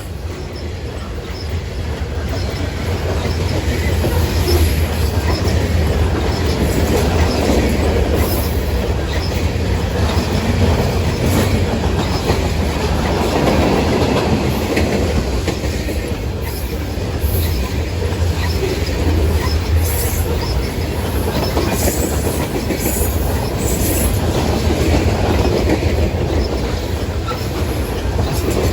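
Manifest freight train's cars passing at speed close by: a steady heavy rumble with the clickety-clack of wheels over rail joints and sharp high clicks from the wheels. The rumble builds over the first few seconds, then holds.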